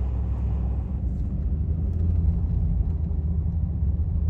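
Pickup truck driving: a steady low rumble of engine and road noise.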